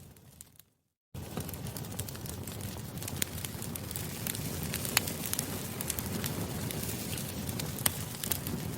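Campfire crackling: a steady rush of burning wood with frequent sharp pops and snaps. The sound fades out just after the start, drops to silence for about half a second, then comes back.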